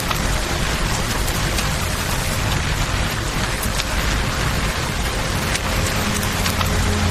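Steady rain falling, layered over the rush of a flowing river, with scattered sharp crackles and drop-like clicks through it.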